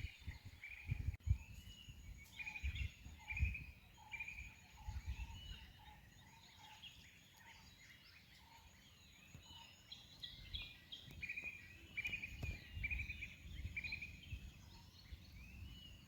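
Birds calling quietly, a run of short arching chirps repeated over and over, with scattered low rumbling bumps.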